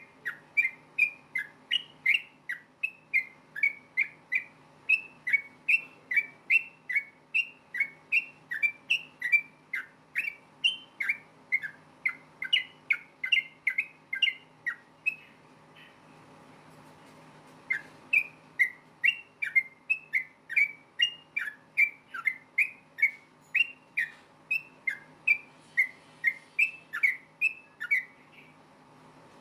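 Yellow-vented bulbul (trucukan) singing a rapid run of short whistled notes, about two a second. It pauses for about two seconds midway, then resumes and stops shortly before the end. A faint steady low hum sits underneath.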